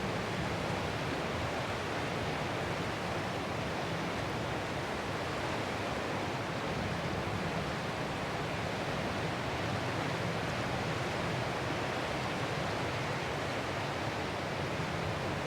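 Ocean surf as a steady, even rushing noise, with no separate swells or breaks standing out.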